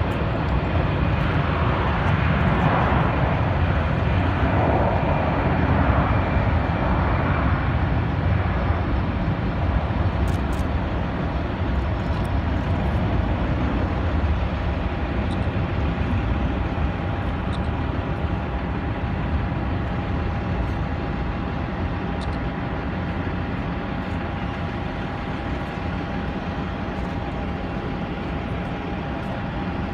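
Boeing 737 MAX 8 jet engines (CFM LEAP-1B) running at low power during a water cannon salute: a steady low rumble, with a hiss in the first few seconds and a steady whine joining about halfway through.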